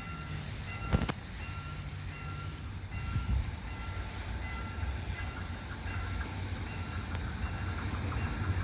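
Diesel locomotive hauling a passenger train as it approaches, its low rumble growing steadily louder. A sharp click comes about a second in, and a high tone sounds on and off in short pulses throughout.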